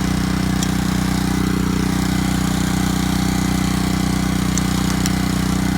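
Small engine of a residential pressure washer running steadily at an even pitch, with a few faint clicks.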